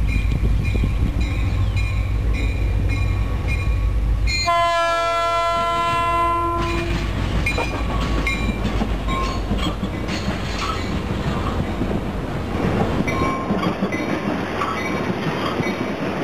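Low rumble for about four seconds, then a diesel locomotive horn blows once for about two seconds. Then a Norfolk Southern track geometry train passes close by, locomotives running and wheels clicking over the rail joints.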